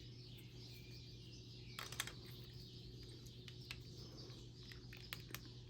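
Faint scattered clicks and light taps of hand work over a steady low hum, with a small cluster of clicks about two seconds in and a few more near the end.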